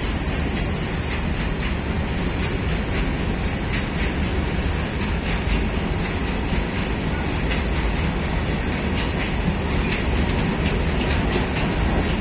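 Freight train of open-top steel wagons rolling steadily past: a continuous rumble of wheels on rail with scattered clicks as the wheels cross the rail joints.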